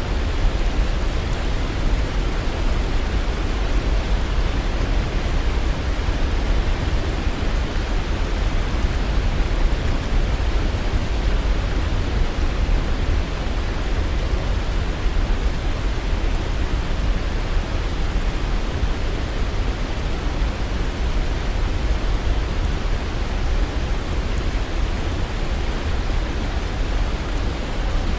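Waterfall: water rushing steadily, with a deep low rumble under an even hiss.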